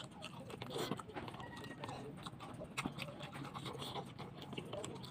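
Close-up chewing of soft eggplant, with wet lip smacks and many short mouth clicks.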